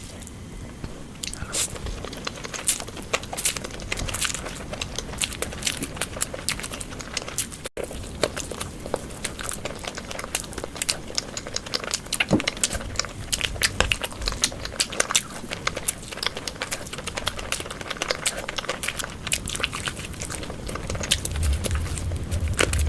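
Close-miked eating: steady biting and chewing of food, a dense run of wet clicks and crunches, with a momentary break about eight seconds in.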